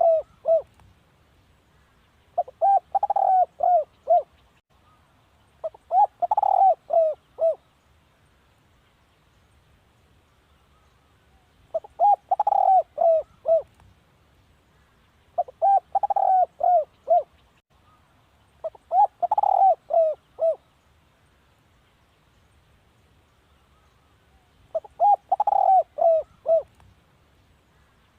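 Spotted dove cooing: phrases of several short notes, each note dropping in pitch, repeated about seven times with pauses of a few seconds between them and two longer pauses.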